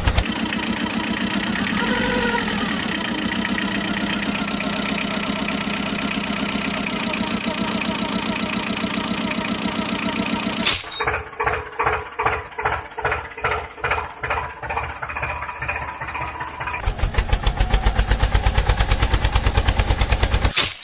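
Vehicle engine sounds: a steady running drone, then from about halfway a slow chugging like an engine being cranked, about two beats a second, changing near the end to a faster, even idle that cuts off with a click.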